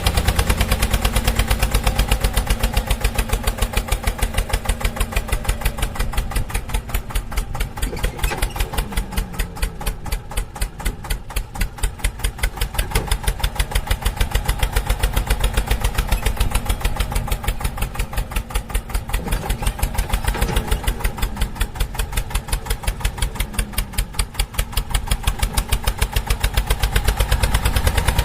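Diesel engine running steadily with rapid, even exhaust beats, its level dipping briefly a couple of times.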